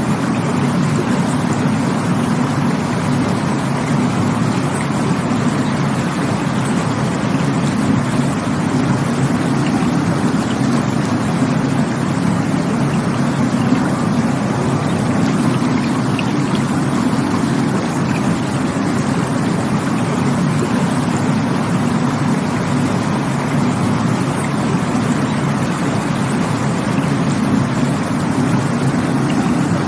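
Rushing water of a stream or waterfall: a steady, even rush with no breaks, heaviest in the low range.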